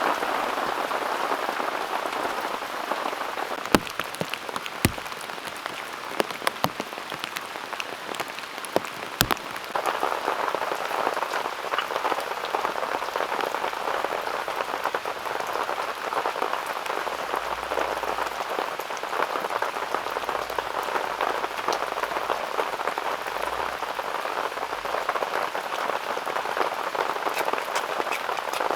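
Heavy autumn rain pouring down as a dense, steady hiss, with a few sharp taps standing out between about four and nine seconds in.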